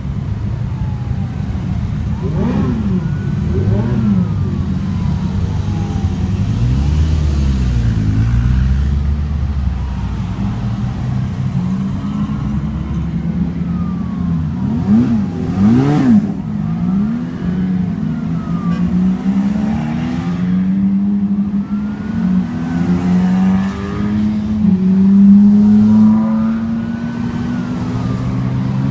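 Sports car engines running in street traffic, revving up and down as cars pull away and pass, over a steady low rumble. A siren wails faintly in the background, rising and falling every few seconds.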